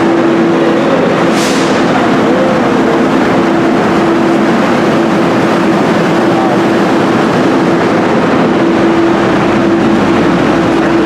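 Steady mechanical drone with a constant low hum, typical of idling rail equipment such as a locomotive or car power and air systems. A short hiss comes about a second and a half in.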